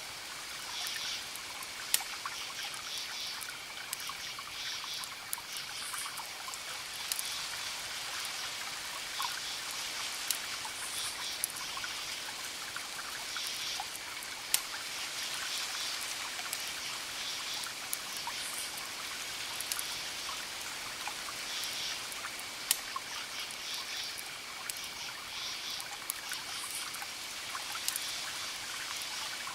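Wood fire crackling with a sharp pop every few seconds over a steady hiss, while chirping calls from night creatures come in short pulsed bursts every second or two.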